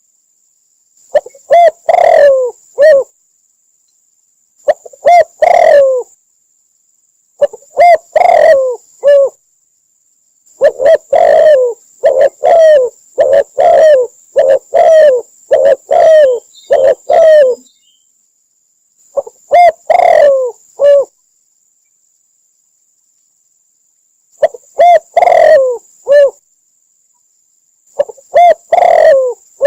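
Spotted dove cooing in repeated phrases of low coos, a few notes to each phrase, with dead silence between phrases and one longer unbroken run of phrases in the middle. It is a recorded lure call used for trapping doves.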